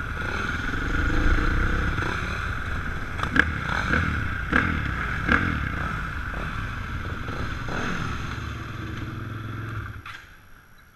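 Dirt bike engine running, its revs rising and falling, with several sharp knocks about three to five seconds in; it drops away about ten seconds in.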